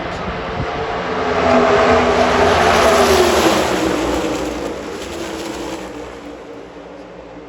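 A pack of NASCAR Cup Series stock cars passes at full throttle. The sound of their V8 engines swells to a loud peak, then drops in pitch and fades away as the pack goes by.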